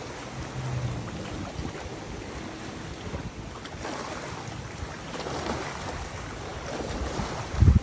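Wind blowing over the microphone, a steady rushing with low buffeting gusts; the strongest gust comes near the end.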